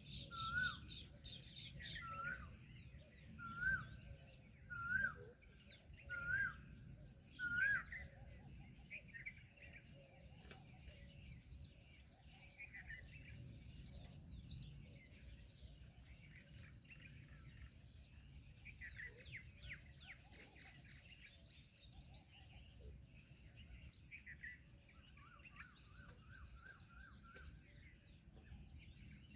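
Several birds calling and chirping together. For the first eight seconds one bird repeats a short whistled note with an upward hook about every second and a half, the loudest calls here. After that come softer, varied chirps and a fast high trill about 20 seconds in.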